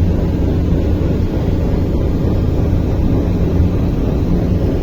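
Passenger train running: a steady, loud low rumble with no breaks.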